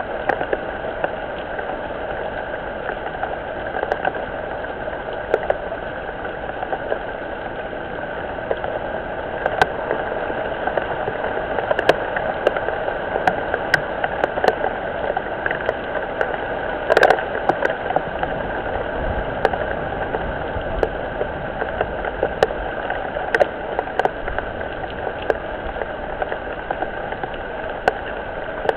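Steady rain picked up by a webcam's small microphone: a constant hiss with many scattered sharp drop ticks. A louder, longer clatter comes about seventeen seconds in.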